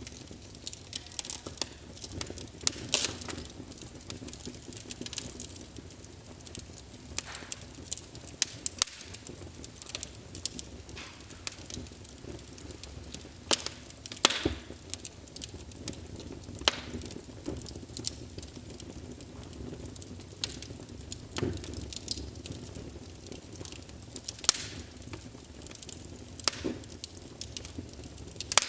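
Wood fire burning in a fireplace: irregular sharp crackles and pops over a steady low hiss of flames.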